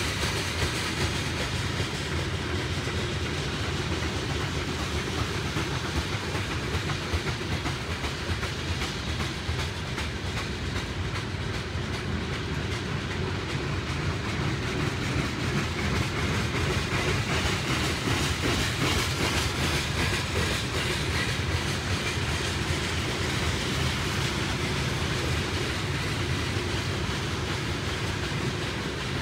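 Freight train of open-top gondola cars of a rock unit train rolling past at steady speed: a continuous noise of steel wheels on the rails with many fine rapid clicks.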